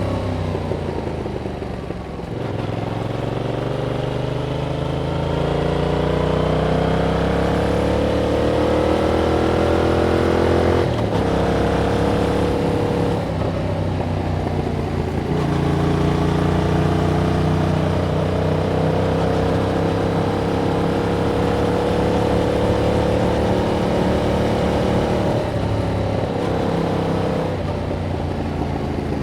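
2021 Yamaha MT-07's parallel-twin engine through its original exhaust, pulling hard with pitch climbing over several seconds at a time, broken by brief gear-change dips about 11 and 25 seconds in, with the pitch falling as the throttle eases near the end.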